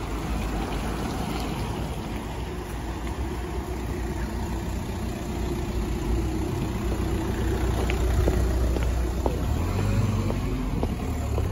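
A car's engine running close by on a wet street, a steady low rumble that grows louder in the second half. A few light clicks come near the end.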